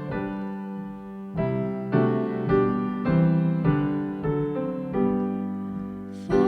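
Piano playing a slow hymn introduction, a new chord struck about once a second.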